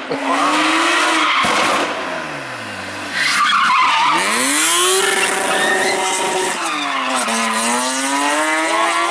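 BMW 1 Series rally car's engine at full throttle, its revs climbing and dropping sharply through gear changes and lifts as it drives hard up the hill. There is a burst of tyre squeal through a corner about three seconds in.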